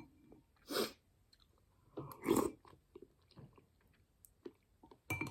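A person chewing and eating spoonfuls of chicken noodle soup: soft wet mouth clicks, with two louder noisy breaths or slurps, about a second in and halfway through.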